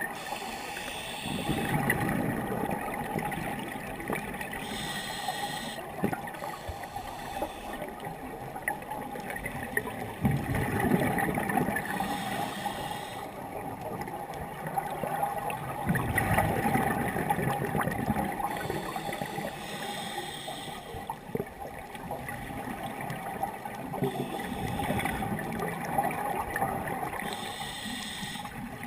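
Scuba diver breathing through a regulator underwater. A short hissing inhale comes about every seven to eight seconds, each followed by a longer gurgling rush of exhaled bubbles, four breaths in all. A faint steady hum runs underneath.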